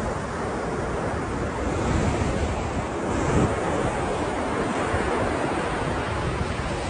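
Ocean waves washing onto shore, a steady rushing surf that swells now and then, with wind buffeting the microphone.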